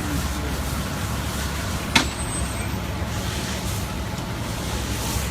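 A heavy truck engine running with a steady low rumble under a constant hiss, with one sharp crack about two seconds in.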